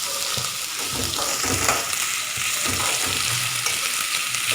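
Chopped onions sizzling in hot oil with cumin and mustard seeds on a low flame, stirred in the pan, the spoon scraping now and then.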